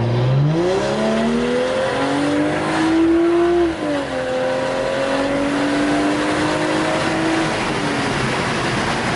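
BMW 535i's N55 turbocharged straight-six, fitted with a new downpipe and a stage 2 tune, pulling under acceleration: the engine note climbs, drops sharply at a gear change about four seconds in, climbs again and falls near the end.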